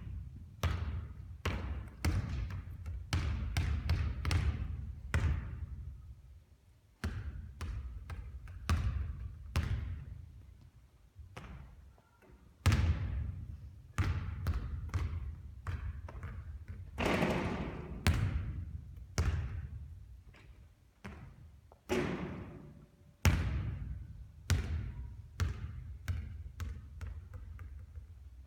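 A basketball bouncing on a hard court again and again during three-point shooting practice: a string of sharp, uneven thuds, some louder hits with a brief ring.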